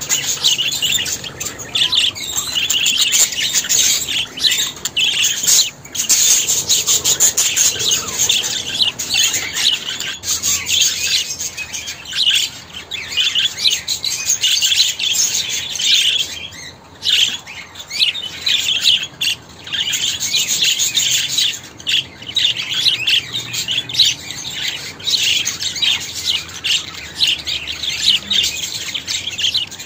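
Budgerigars chattering and warbling: a dense, continuous stream of quick high chirps and twitters, with only a few short breaks.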